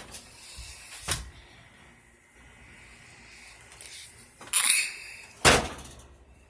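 A few sharp knocks and clatters, with a short scraping rustle about four and a half seconds in and the loudest knock about a second later.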